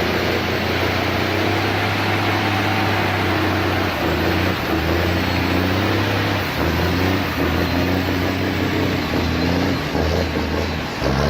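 A stump-grinding machine's engine running steadily under load, with a dense grinding noise over it; the engine note shifts slightly every second or two.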